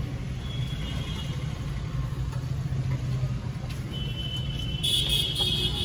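Cabin sound inside a Maruti Suzuki Swift Dzire: its 1.2-litre four-cylinder petrol engine running with a steady low hum. A brief high-pitched tone sounds near the end.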